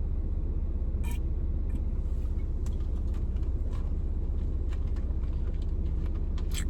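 Steady low rumble of a car's running engine heard inside the cabin, with a few light clicks.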